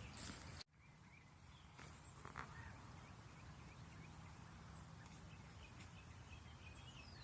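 Faint outdoor evening ambience: a low steady rumble with scattered small high bird chirps, and a falling high call near the end. It cuts to silence for a moment just over half a second in.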